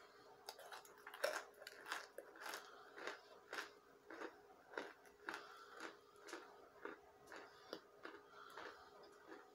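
Lumps of cornstarch being bitten and chewed close to the microphone: a loud bite about a second in, then steady crunchy chewing at about two chews a second.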